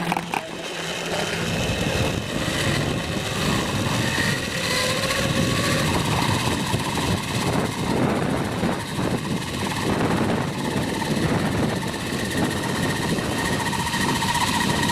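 Zipline trolley pulleys running fast along the steel cable: a steady whirring rush with a faint high whine, building over the first couple of seconds and then holding.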